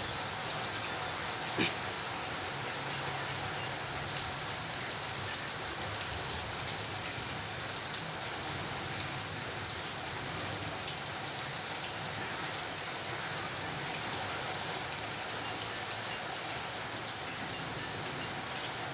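Heavy rain falling steadily. There is a single short knock about one and a half seconds in.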